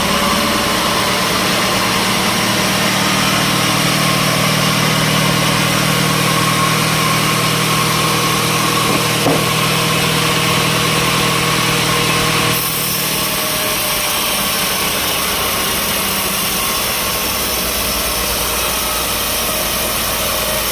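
Sawmill engine running steadily, with no cutting heard. The sound changes abruptly about twelve seconds in.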